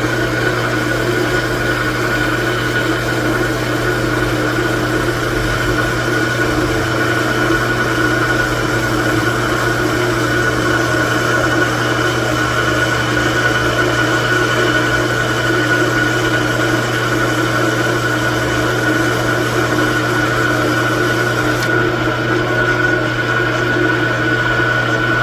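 Metal lathe running steadily, with an unchanging motor hum and a high whine.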